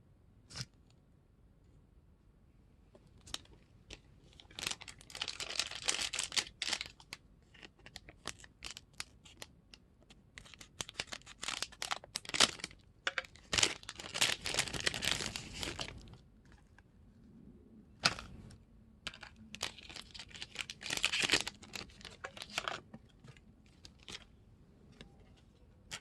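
Plastic wrapper of a card gummy candy pack being torn open and crinkled, in three stretches a few seconds long with small clicks and taps between them.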